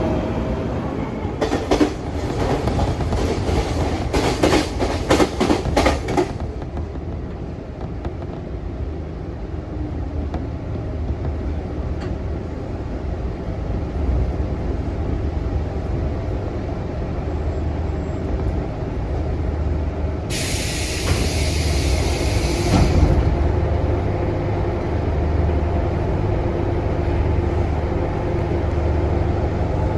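An electric commuter train runs past, its wheels clattering rapidly over the rail joints for about six seconds. Then a Kiha 66/67 diesel railcar idles at the platform with a steady, pulsing low rumble, and about two-thirds of the way through there is a hiss lasting some three seconds.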